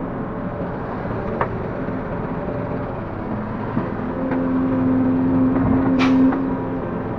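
Link-Belt 145X3E hydraulic excavator's diesel engine running steadily, pulling harder for a couple of seconds past the middle, with a few light knocks and one sharp clank about six seconds in.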